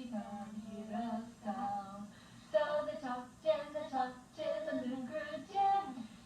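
A girl's voice singing a slow tune unaccompanied, in short phrases that break about once a second.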